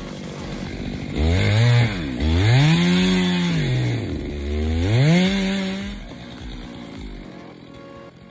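Chainsaw engine revved up and down three times from about a second in, its pitch rising and falling with the throttle, then dropping back quieter about six seconds in.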